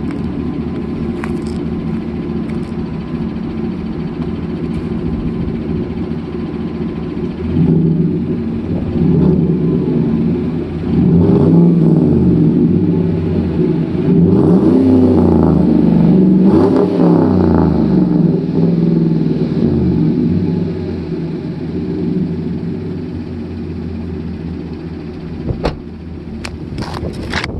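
A warm 5.3-liter V8 in a 2019 Chevrolet Silverado 1500 running through a Borla ATAK cat-back exhaust: idling with a steady rumble, then revved in several blips through the middle, its pitch rising and falling, before settling back to idle.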